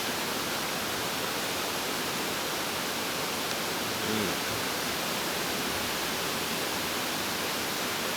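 Mountain stream rushing steadily over rocks: an even, unbroken water noise.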